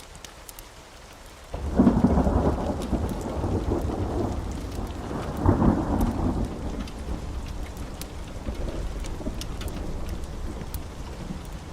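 Wood fire crackling with scattered sharp pops, joined about a second and a half in by a loud, deep rolling rumble that swells twice and then slowly fades.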